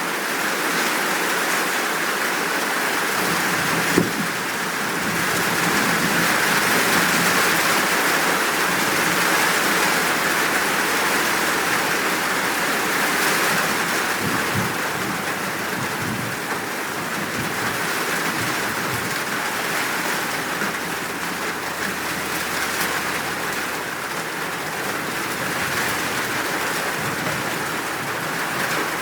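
Steady, full downpour of rain, a dense even hiss, with one sharp tap about four seconds in.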